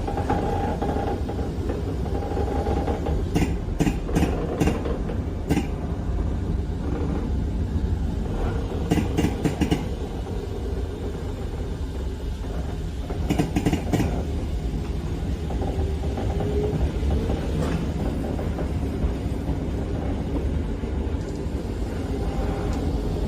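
Eizan Electric Railway train running along the track: a steady low rumble, with groups of sharp clicks about four seconds in, around nine seconds and around thirteen seconds.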